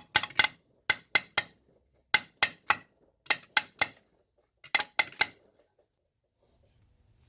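Hammer tapping on the metal chassis of a Leslie 122 amplifier in quick groups of three or four sharp strikes, working a small kink out of the bent chassis. The tapping stops a little over five seconds in.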